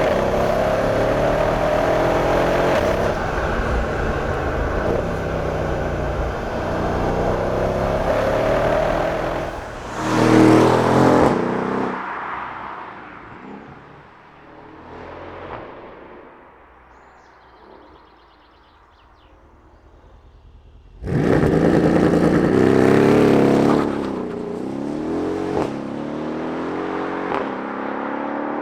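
Mercedes-AMG CLS63 Shooting Brake's 5.5-litre twin-turbo V8 accelerating hard, its pitch rising and falling through the gears, with a loud surge about ten seconds in. The engine then fades away to a low level. About two-thirds of the way in it comes back loud all at once, revving high before settling.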